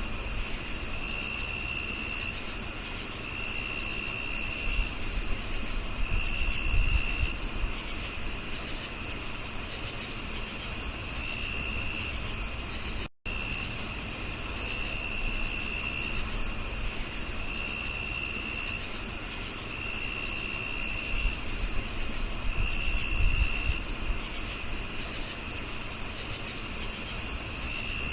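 Crickets chirping: several insects together, one in short pulses about two to three a second, another in trills about a second long repeating every couple of seconds, over a steady high whine and a low background hiss. The sound drops out completely for an instant about 13 seconds in.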